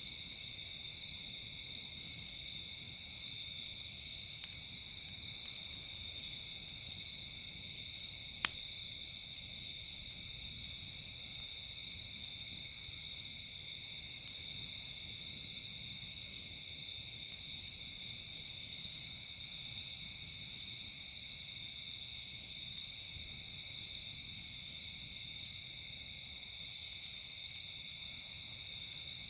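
Steady night chorus of crickets and other insects, with a higher trill that comes and goes every few seconds. Two sharp pops from the crackling campfire, about four and eight seconds in.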